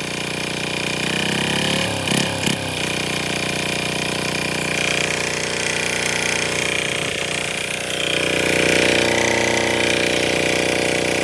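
Small 5 hp single-cylinder diesel engine running, speeding up about a second in, with two sharp knocks around two seconds, then running steadily and a little louder near the end.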